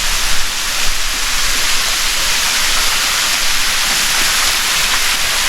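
Steady rush of running water from the stream flowing through the canyon.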